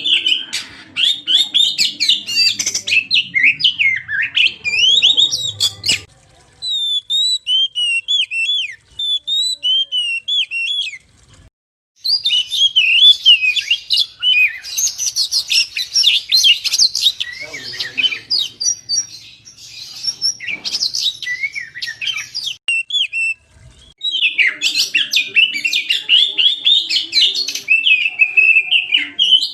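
Oriental magpie-robin (kacer) singing a loud, fast, varied song of whistles, trills and chirps, with brief breaks about six, eleven and twenty-four seconds in.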